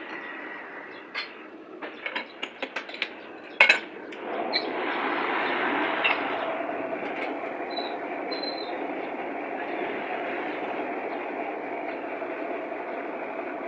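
A few sharp clicks and knocks, then from about four seconds in a steady mechanical whirring with a faint hum.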